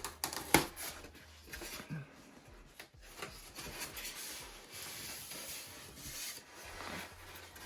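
Foam airframe parts and their packaging being handled and pulled from a cardboard box: a couple of sharp knocks in the first second, then a few seconds of rubbing and rustling.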